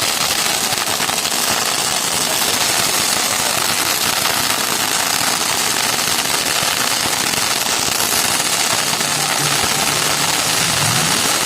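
Firecrackers going off in a fast, continuous crackle that runs without a break.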